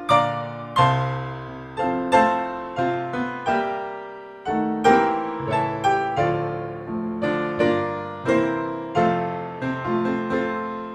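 Background music of solo piano: a slow, gentle piece of single notes and chords, each struck and fading, with a brief lull about four seconds in.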